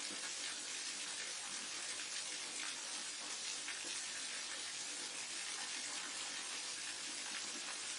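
Small waterfall and mountain stream rushing steadily, a continuous even hiss of falling water.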